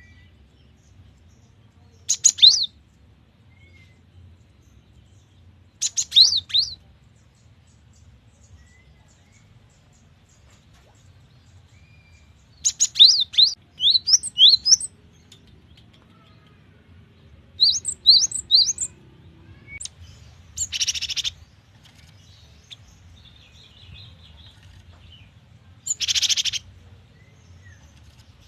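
Cinereous tit (gelatik batu) singing in short clusters of sharp, sliding whistled notes every few seconds. Later come two harsh rasping calls, a few seconds apart.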